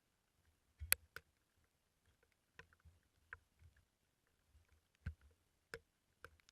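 Faint, irregular sharp taps and light knocks, some with a dull low thud, about a dozen in six seconds; the loudest comes about a second in.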